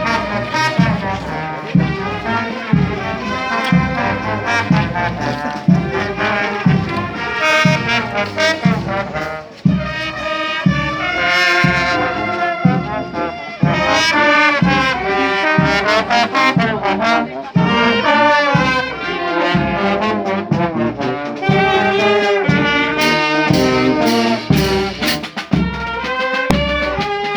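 Brass band playing a tune with trombones and trumpets over a steady beat of about two strokes a second.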